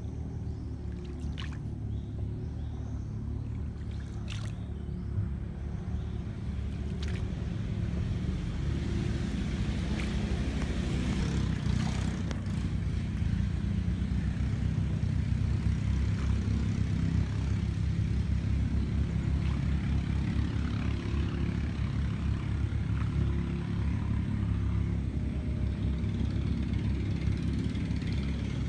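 Boat engine running steadily with a low drone that gets louder about eight seconds in. A few light clicks or knocks come in the first few seconds.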